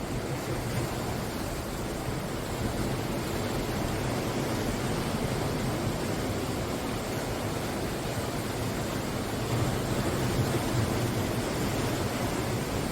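Sea waves breaking and washing ashore in a steady rush of surf, with one wave swelling louder about ten seconds in.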